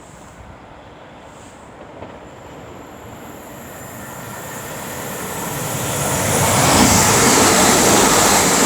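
Royal Mail Class 325 electric multiple unit coming into the station and passing at speed: a rising rush of wheel and rail noise that grows steadily louder from a few seconds in, then holds loud for the last couple of seconds.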